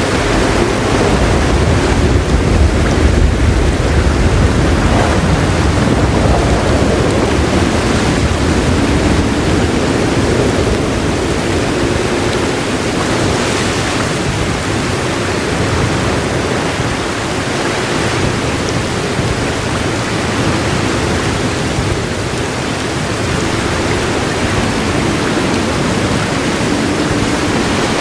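Heavy rain falling in a steady hiss. A low roll of distant thunder swells in the first few seconds and fades out by about six seconds in.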